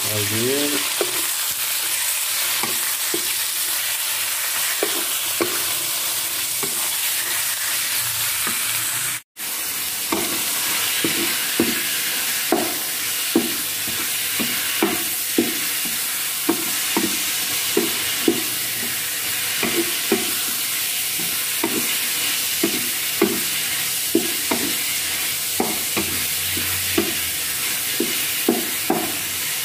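Chicken pieces sizzling in hot oil in an electric wok-style pot, stirred with a wooden spatula that scrapes and taps the pan, roughly once a second in the later part. The sizzle is broken by a split-second gap about a third of the way through.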